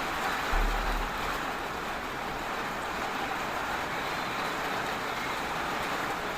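Steady hiss of heavy rain, with a brief low thump about half a second in.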